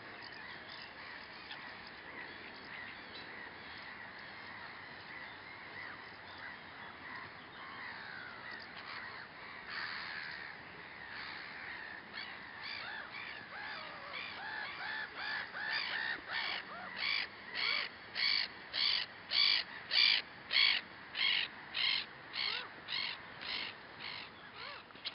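A bird calling in a long, even series of about two calls a second, starting about halfway through, growing louder and then fading. Faint background birdsong runs beneath it.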